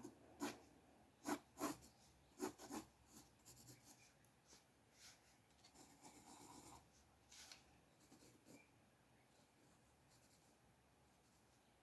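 Faint strokes of a drawing tool scratching on paper: a run of short, sharper strokes in the first three seconds, then lighter, sparser strokes with a longer rub a little past the middle.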